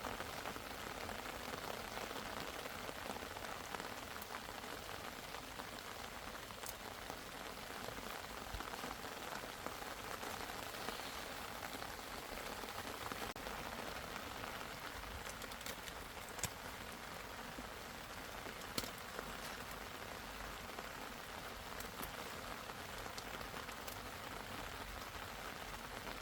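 Steady rain falling on a surface, with a few sharper drop ticks now and then.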